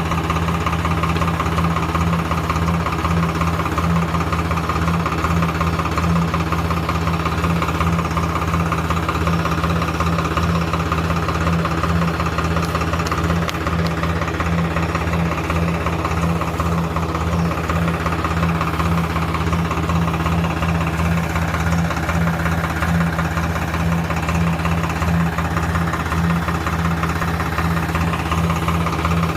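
Engine of a crop sprayer running steadily at an even speed while herbicide is sprayed.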